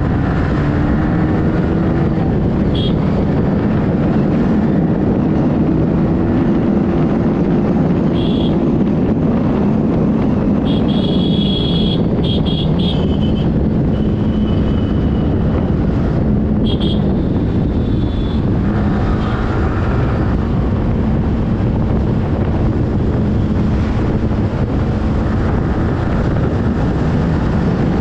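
Yamaha R15 V3's 155 cc single-cylinder engine running while riding, its note rising and falling gently with speed, under heavy wind rush on the microphone. Several short high-pitched beeps sound over it in the first half.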